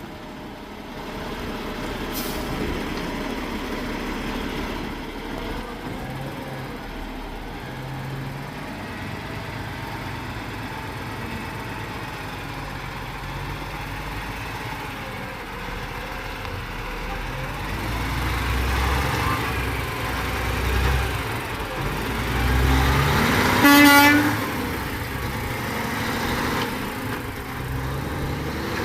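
Peterbilt 379 gravel truck's diesel engine running, its low rumble growing louder about two-thirds of the way through, with one short air horn toot near the end.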